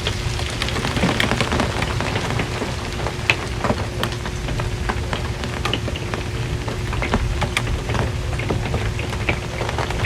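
Rain falling on an RV's metal roof: a steady hiss dotted with many separate drop ticks. A steady low hum runs underneath.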